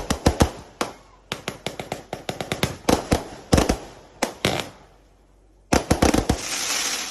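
A 120-shot fan-pattern fireworks cake with 0.8-inch tubes firing, its launches going off as rapid sharp bangs in quick succession. After a brief pause about five seconds in, a last few shots go off, followed by a dense hiss.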